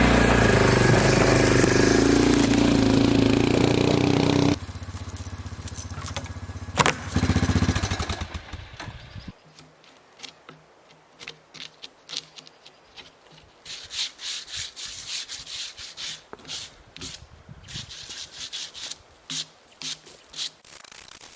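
Sawmill engine running loud, its pitch sagging and recovering as if under load. It drops to idle about four and a half seconds in, winds down and stops around nine seconds, leaving scattered light knocks and rubbing.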